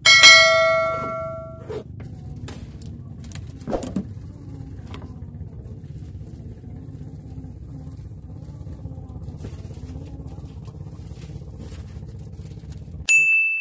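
A bright chime from the subscribe-button animation rings at the start and dies away over about a second and a half. It is followed by a steady low motor-like hum, which cuts off suddenly near the end as a single high ting sounds.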